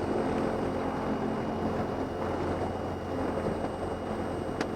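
Cessna 172M's four-cylinder Lycoming engine running steadily at low power while taxiing, heard from inside the cabin. A single sharp click near the end.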